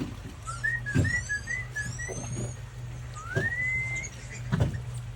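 Whistling: a quick series of short chirped notes, then one long whistle that rises and holds. Under it runs a low steady hum, with a few dull thumps.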